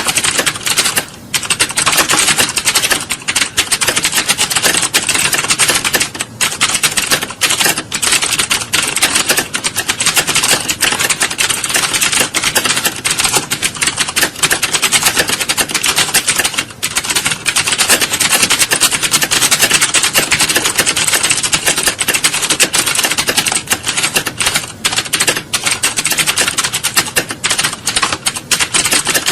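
Rapid typing on computer keyboards, a dense, continuous clatter of keystrokes with a few brief pauses.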